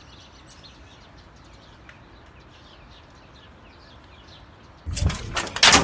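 Small birds chirping, many quick short chirps, faint. About five seconds in, a sudden loud clatter with a sharp knock.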